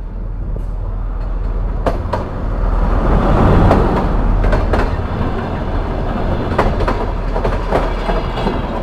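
Diesel multiple-unit passenger train pulling in past the platform: its rumble swells to a peak about three and a half seconds in as the leading cars go by. The carriages then roll past with pairs of sharp clicks every couple of seconds, the wheels of each bogie crossing rail joints.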